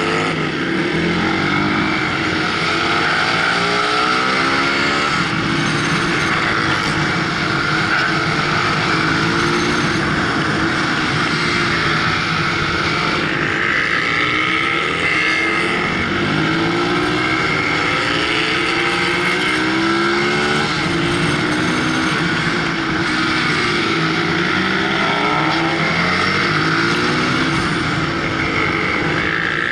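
Onboard supermoto motorcycle engine, revving up through the gears and dropping back over and over as it accelerates out of corners and slows for the next, with steady wind and road noise over it.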